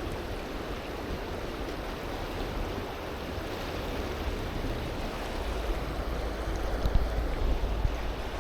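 Fast, high river current rushing steadily: the river is running in flood. A heavier low rumble joins in about halfway through.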